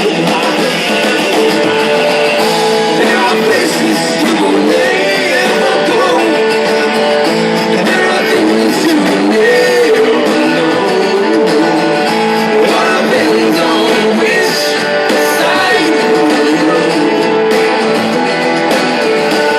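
Live rock band performing, led by strummed and plucked guitar with a male voice singing over it.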